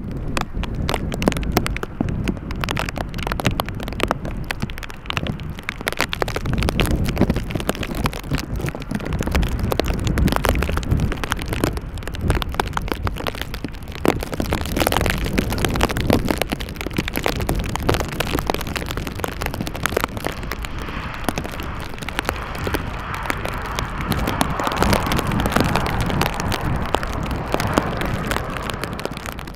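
Strong gusty wind buffeting the microphone: a continuous low rumble with crackling pops, and a broader rushing hiss that swells in the last third.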